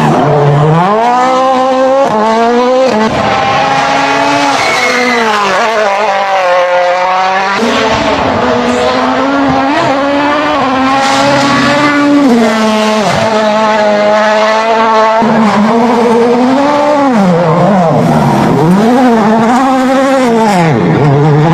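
Rally car engine revving hard. Its pitch climbs and then drops sharply several times as it shifts gear and lifts off, with quick rev swings up and down near the end.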